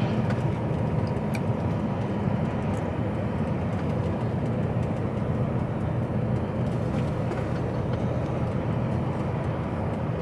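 HGV lorry's diesel engine running steadily, heard as a constant low rumble from inside the cab, with a faint steady whine and a few small clicks.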